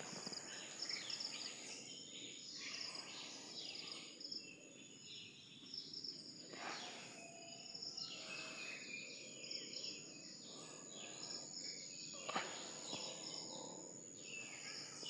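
Faint outdoor ambience of birds chirping, with a steady high insect-like whine underneath. A brief rustle comes twice, about a third of the way in and again near the end.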